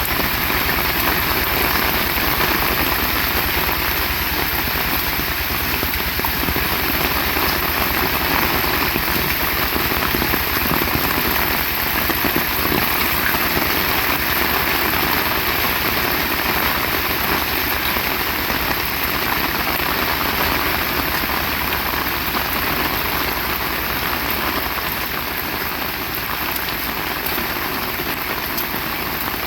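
Heavy rain falling steadily: a dense, even hiss with a low rumble underneath, easing a little near the end.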